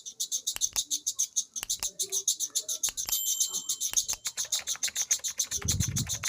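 Cricket chirping in rapid, even pulses, about ten a second. A few sharp knocks fall in the first four seconds, and a short low rumble comes near the end.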